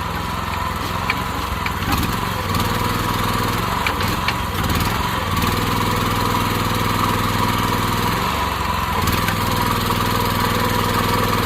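Small gas engine of a towable backhoe running steadily, driving its hydraulic pump, with a steady high whine that grows stronger about halfway through and changes in engine load as the boom and bucket are worked. The stronger whine fits a control lever held at the end of its travel, with the hydraulics pushing against their stop.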